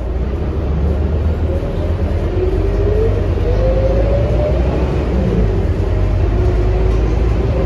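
Scania K230UB bus's diesel engine and drivetrain running with a deep rumble. About two seconds in, a whine rises in pitch as the bus accelerates, then falls away again after about five seconds.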